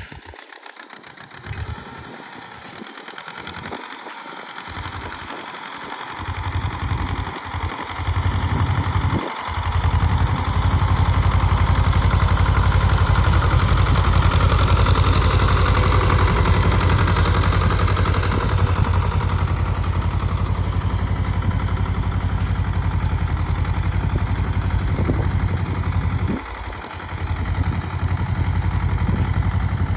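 Sonalika DI 30 tractor's diesel engine running. It grows louder over the first ten seconds, then runs steadily with a deep rumble, and dips briefly a few seconds before the end.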